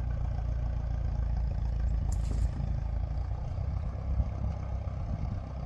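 A steady low engine rumble, like a vehicle running, with a brief burst of hissy noise about two seconds in.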